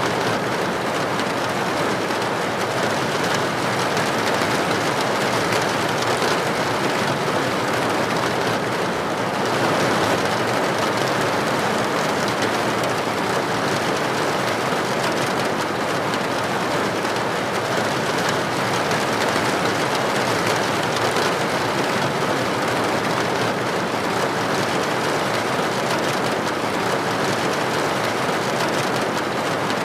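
Steady heavy rain falling, a continuous even hiss with no breaks or single loud drops.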